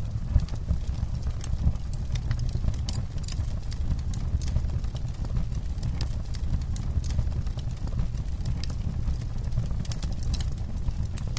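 Campfire burning, with irregular sharp pops and crackles over a steady low rumble.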